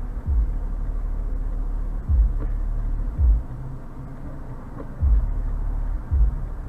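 Steady low rumble of a car on the road, heard through a dashcam, with five short, dull low thumps about a second or two apart.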